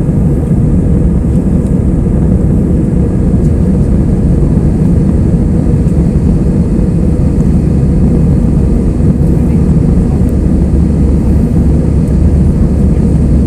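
Steady, loud, low rumble of jet engines and rushing air heard from inside the passenger cabin of an Airbus A320.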